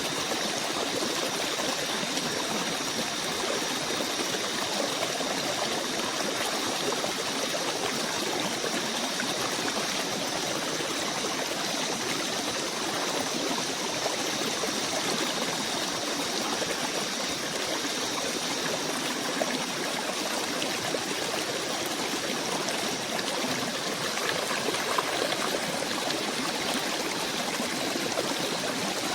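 Steady, even rush of a flowing stream, with faint steady high-pitched tones above it.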